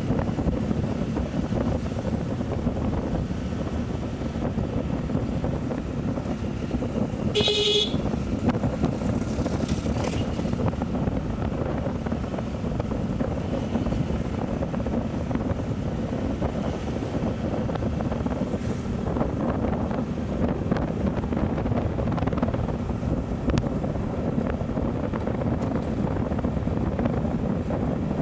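Motorcycle riding with steady wind noise on the microphone and the engine and road rumble beneath it. A vehicle horn toots briefly about seven and a half seconds in.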